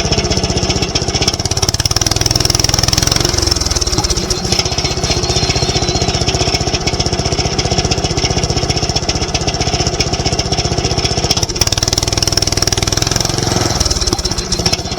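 Sawmill engine running steadily at a low idle, not yet wound up to cutting speed. Its low tone shifts about four seconds in and again near the end.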